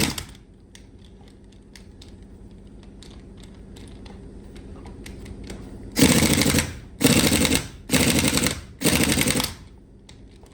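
Four short, loud rattling mechanical bursts, about a second apart, over a steady low hum.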